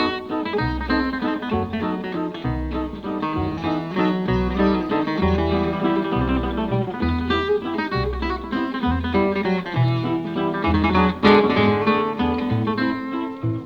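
Acoustic guitar music: quick plucked notes over a repeating low bass line, with one sharp strike about eleven seconds in.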